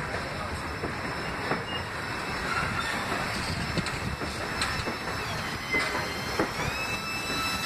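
Loaded freight tank cars rolling past on the rails, a steady rumble of steel wheels with scattered clicks over rail joints. A little past two-thirds through, a high wheel squeal slides up in pitch and holds.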